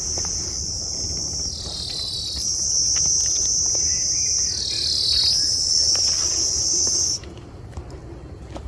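A forest insect's loud, high buzzing call. It holds steady, drops lower in pitch twice, and cuts off suddenly near the end.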